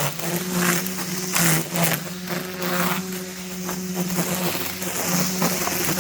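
Brushcutter engine running at high revs with a steady buzz, its pitch wavering slightly. Over it come repeated rough swishes as the cutting head slashes through grass.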